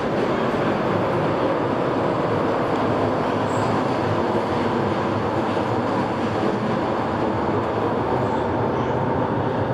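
A train running across a riveted steel railway bridge high above, heard as a steady, even rumble.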